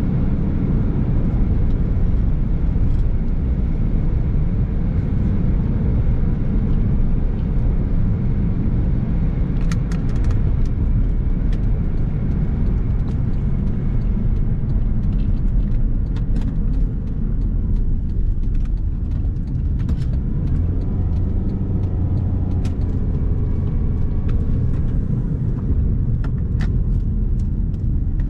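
Steady rumble of a car driving along a road, tyre and engine noise, with scattered light ticks.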